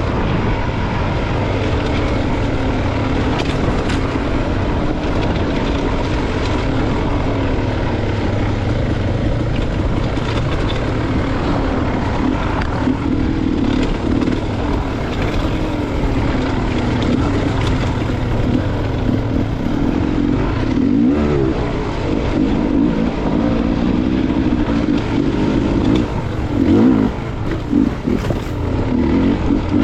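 Dirt bike engine running along a trail, its revs rising and falling with the throttle; in the last few seconds the throttle is blipped and the revs swing sharply.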